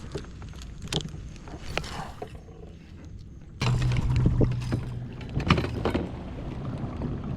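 Small clicks and knocks around a fishing kayak, then about halfway through a kayak's electric trolling motor switches on and runs with a steady low hum over water noise.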